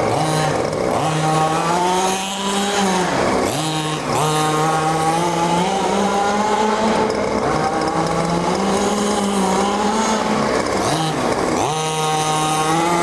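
Two-stroke engine of a large-scale gas-powered RC car, running at high revs. The revs drop off and climb back twice.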